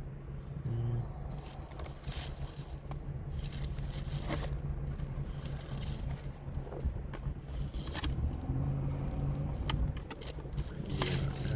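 Plastic takeout containers clicking and scraping as they are handled, over a steady low hum.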